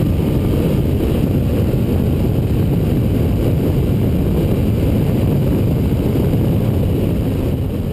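Honda CB1000R inline-four with an unbaffled Ixil exhaust, ridden at speed and heard through heavy wind rumble on a tank-mounted camera's microphone. The sound is steady and starts fading out near the end.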